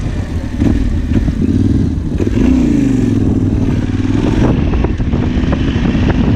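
Yamaha Ténéré 700's parallel-twin engine running under way, its note dipping and climbing again around the middle as the throttle changes, with scattered short knocks from the bike over the ground.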